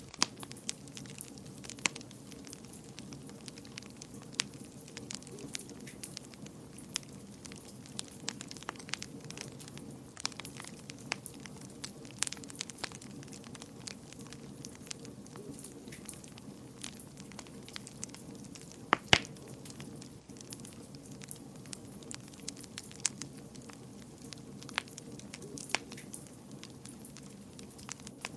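Wood fire in a fireplace crackling: irregular sharp pops and snaps over a steady low rumble of burning, with one loud pop about nineteen seconds in.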